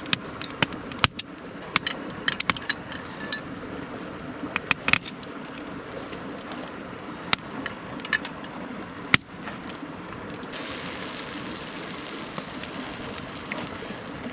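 Steady rush of a mountain stream with scattered sharp clicks and crackles over a cooking fire. About ten seconds in, a steady sizzle starts as food hits the hot iron.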